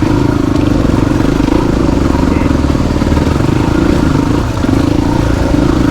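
Motorcycle engine running steadily under way, a dense, even engine note with rapid firing pulses and no marked revving.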